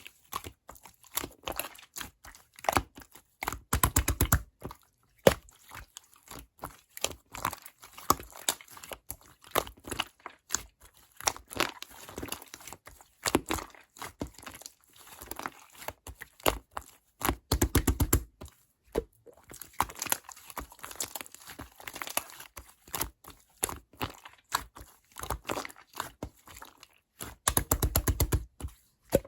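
Slime being squished and pressed by hand, crackling and popping as air pockets burst. There are three short bursts of rapid pops.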